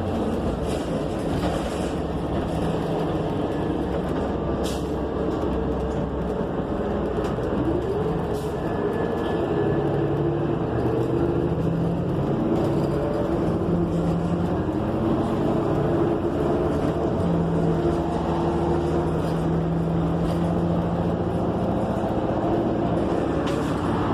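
Ride inside a 2015 New Flyer XN40 transit bus under way: the Cummins Westport ISL G natural-gas engine and Allison B400R automatic transmission run steadily, their tones shifting in pitch as the bus changes speed. A few light clicks and rattles come through, with no air conditioning running.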